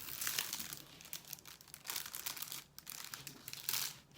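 Plastic protective film over a diamond painting canvas crinkling in a run of irregular crackles as it is handled.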